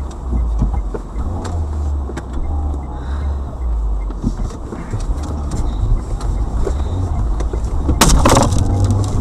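Low road and engine rumble of a moving car, heard from inside the vehicle, with scattered clicks. A sudden loud noise about eight seconds in lasts about half a second.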